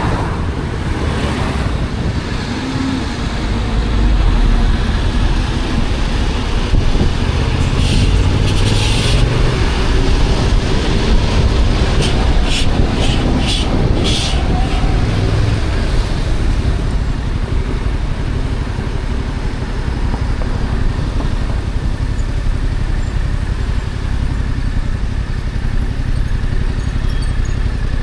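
Yamaha XSR700's stock parallel-twin engine running under way, its note rising and falling with the throttle. A few short hissing bursts come in the middle.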